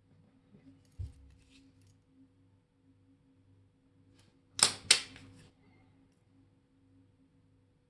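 Two sharp clicks of small metal tools or parts handled on a watchmaker's bench, about a third of a second apart, each with a brief ring. Before them come a soft low knock and a few faint taps, over a steady electrical hum.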